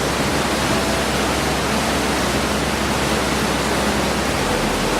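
Large waterfall rushing steadily, a dense, even wash of falling water.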